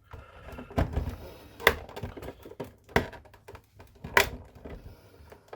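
Hard plastic clicks and knocks, a handful of sharp ones at irregular intervals with a few duller thuds, as the casing parts of a Nespresso Citiz coffee machine are lifted off and handled during disassembly.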